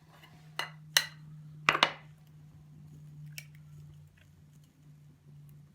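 A few sharp clicks and knocks from handling cooking gear, the loudest a quick double knock about two seconds in, over a steady low hum.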